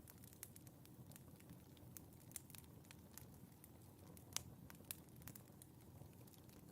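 Fireplace fire crackling quietly: scattered sharp snaps and pops over a soft low hiss, with the loudest pop a little past the middle.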